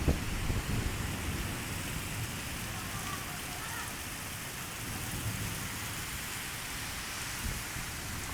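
Heavy rain pouring steadily, with a low, uneven rumbling underneath.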